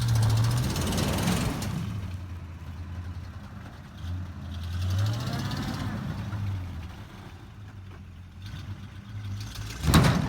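Truck engine revving twice under load as it pulls on a tow strap, then a single loud sharp snap near the end as the strap breaks.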